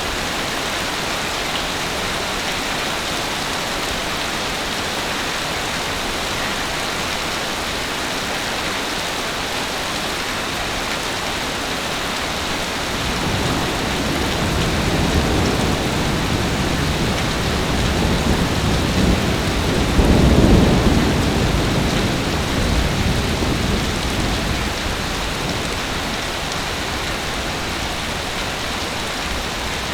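Heavy rain falling steadily. About halfway through, a long roll of thunder builds, is loudest a little past two-thirds of the way through, and then fades away.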